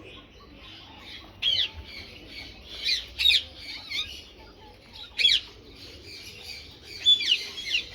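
Sun conure squawking: a string of sharp, shrill calls that drop in pitch, about a second and a half in, twice around three seconds, again near four and five seconds, and a burst near the end, over softer continuous chattering.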